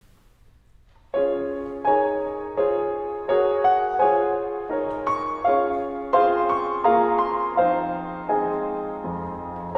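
Solo piano playing a slow, gentle sequence of chords, struck about once every 0.7 seconds, each ringing and fading; it starts about a second in.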